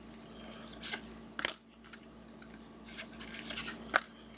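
Trading cards being handled: a few sharp snaps and clicks with a patch of quick rustling as cards are slid and flicked through the hands.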